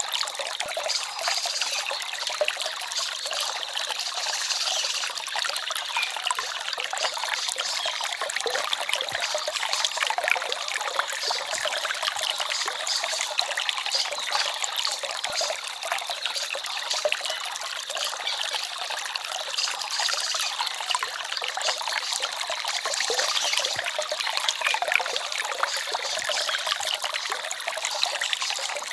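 Small forest stream babbling steadily, a continuous trickle of water with no deep rumble.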